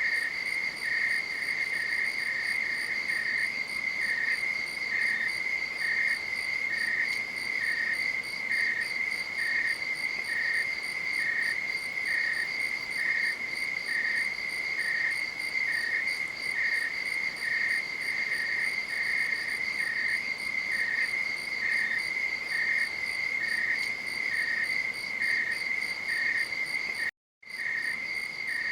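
Night insects chirping: a steady high trill together with a second, slightly lower chirp repeating about one and a half times a second, all briefly cutting out for a moment near the end.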